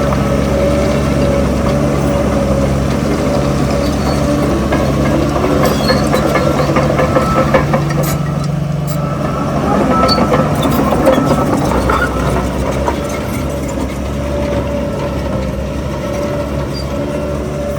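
Heavy diesel engine of earthmoving machinery running steadily, with a stretch of clatter and knocks in the middle.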